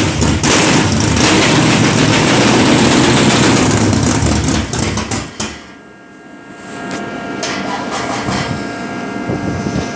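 1966 Dodge Coronet's engine running after a cold start, then cutting out sharply about halfway through. A quieter steady hum with faint held tones follows.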